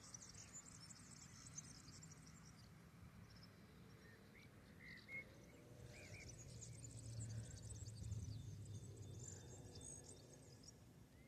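Faint high chirring of insects, crickets or cicadas, fading out and returning, with a few short bird chirps in between and a low background rumble that swells near the middle.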